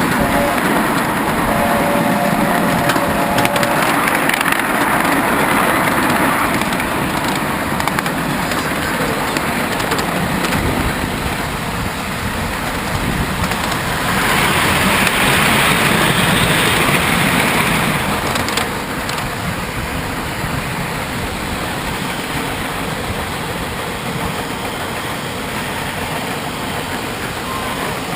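Steam train running along the track, heard while riding it: a steady rolling clatter and rush of noise. A brief chord of steady tones comes about two seconds in, and a louder, hissier stretch comes around the middle before the noise settles a little lower.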